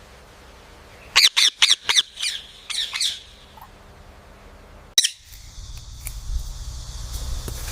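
A parrot squawking in a rapid run of about eight short, harsh calls over roughly two seconds. About five seconds in there is a sudden click, and a steady hiss with a low rumble follows.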